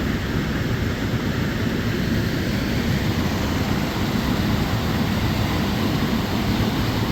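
Steady rushing noise, strongest in the low end, with no clear tone or rhythm.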